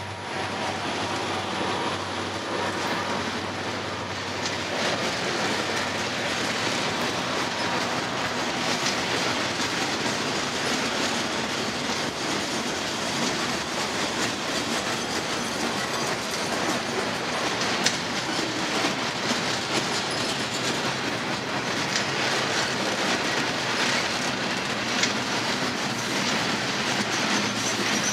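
Loaded freight flatcars rolling past at steady speed: a continuous rumble of steel wheels on rail with clickety-clack over the rail joints and occasional sharp clicks.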